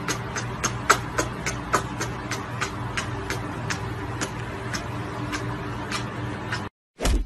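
Rapid, repeated kissing smacks, about four or five a second, over a steady low hum. The smacking cuts off near the end and gives way to low thumps.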